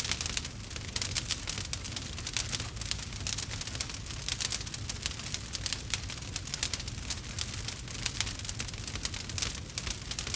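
Campfire burning with a dense, steady crackling and popping of wood over a low rumble of the flames.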